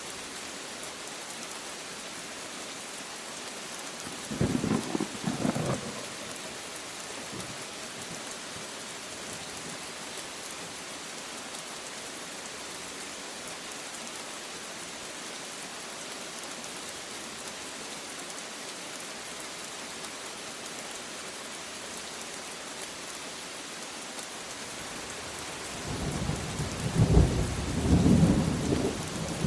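Steady rain falling, with thunder: a short rumble about four seconds in, and a louder, longer rolling peal building near the end.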